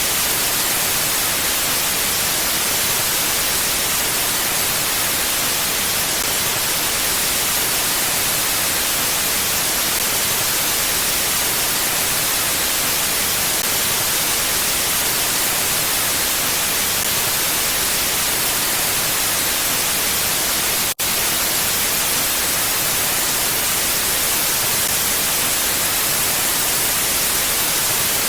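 Mountain wind ambience heard as a steady, even hiss with no gusts, weighted toward high pitches. It cuts out for an instant about twenty-one seconds in.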